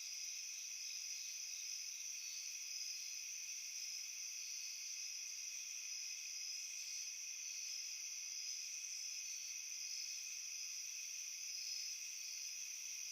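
Crickets chirping in a steady chorus, several high-pitched trills overlapping, with short chirps repeating over the continuous sound.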